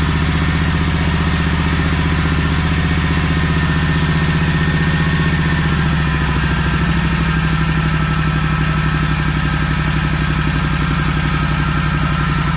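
SCAG 52-inch walk-behind mower's engine running steadily after its ignition coils were replaced, starting right up. Its speed shifts slightly about six seconds in.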